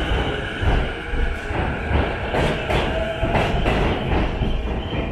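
JR Chuo Line E233-series electric commuter train pulling out along the platform, its wheels clacking over the rail joints in a repeating rhythm over a steady rumble.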